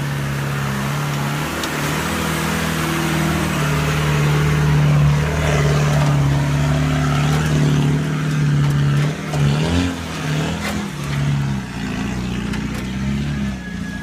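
Land Rover 110's engine running under load and revving as the truck crawls up a deep rutted dirt climb, its note wavering and dipping about two-thirds through. A few sharp knocks come in the uneven stretch, and the engine fades near the end.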